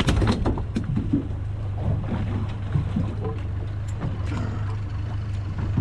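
A boat's motor running steadily with a low hum, with scattered short knocks and water noise on the hull.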